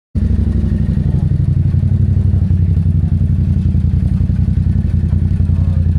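Motorcycle engine running loud and close at a steady speed, with a rapid, even firing pulse.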